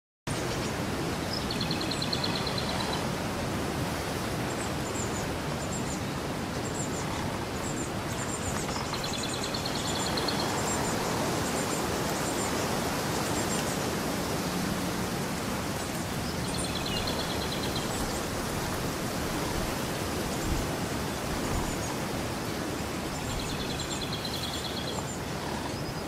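Steady rushing outdoor background noise, with a songbird repeating one short trilled phrase four times, about every seven seconds, and fainter high chirps from other birds.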